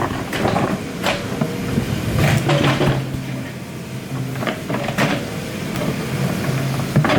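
Excavator working: its diesel engine runs steadily under a string of irregular knocks and clanks.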